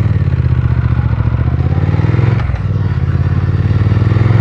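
2020 Triumph Speed Twin 1200's 1200 cc parallel-twin engine pulling away under acceleration, revs climbing. About two and a half seconds in there is a brief dip as it shifts up a gear, then the revs climb again.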